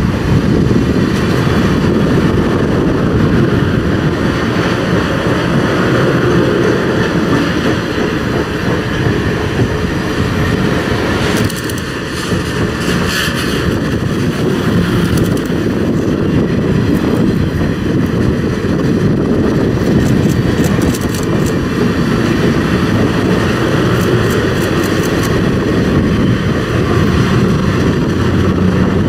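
Circus train's passenger cars rolling past at speed: a loud, steady rumble of steel wheels on the rails. A patch of sharp clicking about halfway through, and again later.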